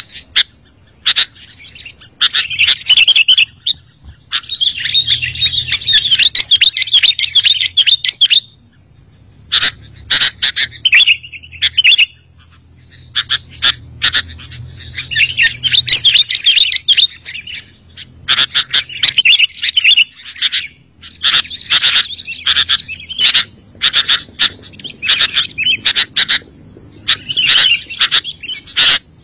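Sooty-headed bulbul (kutilang) singing loudly: quick, bubbly chattering phrases broken by short pauses and sharp single notes.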